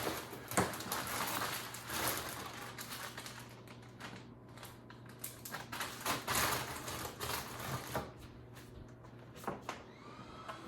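Irregular clicks, taps and rustling from handling things in a kitchen, over a steady low hum.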